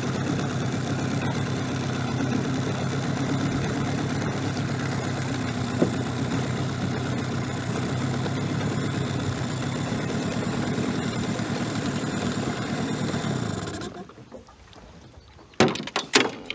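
Boat motor running steadily, then shut off about fourteen seconds in as the boat stops; a few sharp knocks follow near the end.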